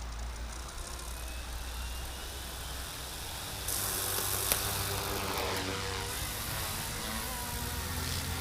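Fly Wing FW200 electric RC helicopter's motor and rotor running, spinning up with a rising whine about halfway through and then holding a steady pitch, with one sharp click and wind noise on the microphone.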